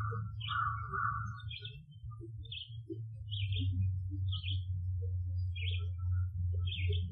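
A bird repeating a short chirping call about once a second, with two longer, lower buzzy notes near the start, over a steady low hum.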